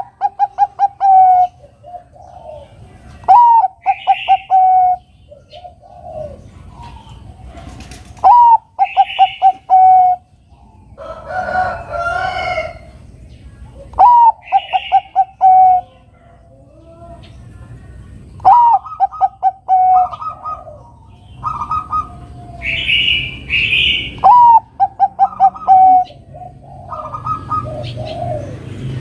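Bangkok-type zebra dove (perkutut) singing its cooing song. Each phrase opens with a rising-and-falling note and runs into a quick string of short, even coos, repeated about every five seconds. Shorter, higher bird calls fall between the phrases.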